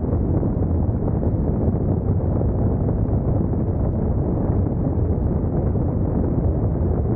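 Steady wind rush and low rumble on the camera's microphone from a Honda NC750X DCT motorcycle under way, with no distinct engine note standing out.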